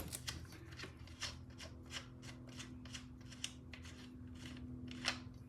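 Light metallic clicks and scrapes, a few a second, of a spanner working the 1/4 inch Whitworth nuts that hold a British Seagull outboard's fuel tank, over a faint steady hum.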